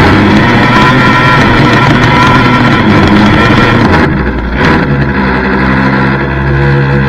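Two-stroke gas engine of a fifth-scale RC monster truck running hard. About four seconds in it changes abruptly to a steadier, duller sound.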